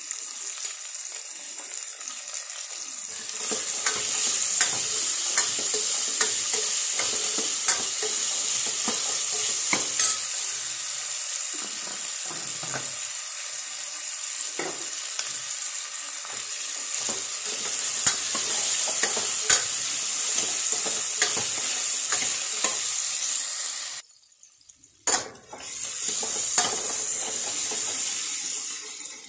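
Whole small onions (shallots), garlic and curry leaves sizzling in hot oil in a pressure cooker pot, stirred with a steel ladle that clicks and scrapes against the metal. The sizzle cuts out for about a second near the end, then resumes.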